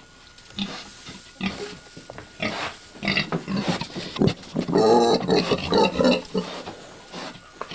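Heavily pregnant sow making a run of short, separate vocal calls, loudest and most frequent about halfway through; these are the restless noises of a sow close to farrowing.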